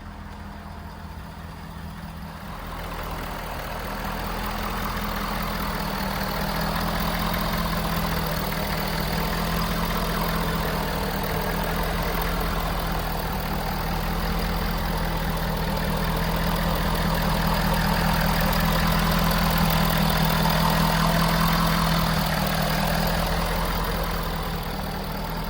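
A 2016 Ford F350's 6.7-litre V8 turbo-diesel idling steadily, getting louder about three seconds in.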